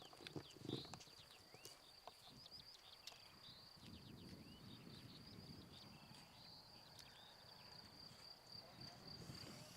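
Near silence with faint outdoor birdsong: many short chirps over a steady, thin high tone. No jet engine is running.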